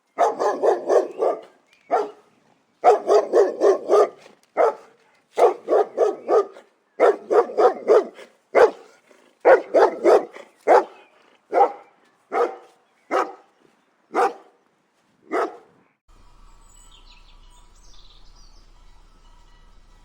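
An animal barking: quick runs of four or five barks at first, then single barks coming further apart and fading, stopping about three-quarters of the way through.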